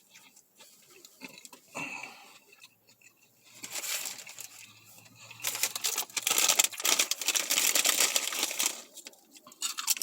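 Bag of chips crinkling and crackling as it is torn open and handled. The crackle starts about a third of the way in and is loudest past the middle before easing off.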